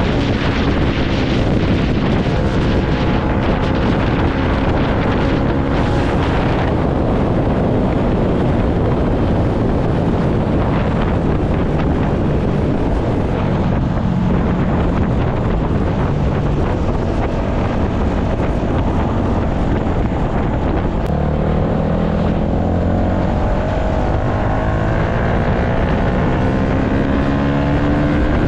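Yamaha MT-125's single-cylinder four-stroke engine running under way, with heavy wind noise on the microphone. From about two-thirds of the way through, the engine note climbs steadily as it accelerates.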